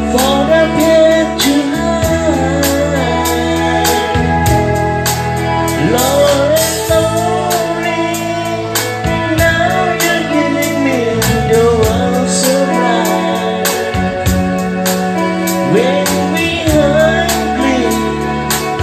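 A band playing a song with a singer, over a steady drum beat.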